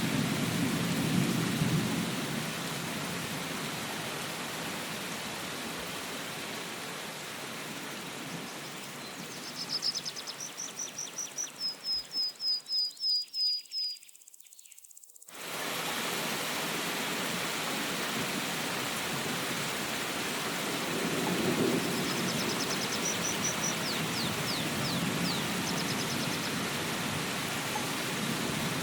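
Steady rain falling, with low rolls of thunder near the start and again later on. Midway a bird sings a run of high repeated notes, and the rain sound briefly drops away before coming back abruptly.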